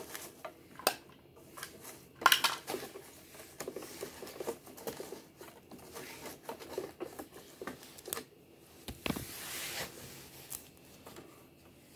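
Toy garbage trucks and small cardboard bins being handled on a hard surface: irregular clicks, taps and light knocks of plastic and cardboard, with a short rustle or scrape about nine seconds in.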